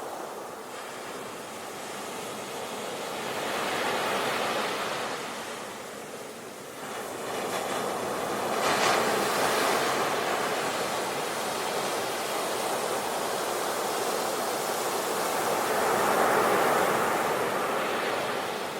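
Sea waves washing onto the shore in a continuous rushing wash, swelling as a wave breaks about four seconds in, again more strongly near nine seconds, and once more near the end.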